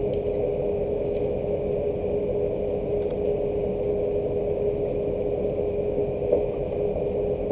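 Steady mechanical hum with a constant mid-pitched tone and a few faint scattered ticks on top.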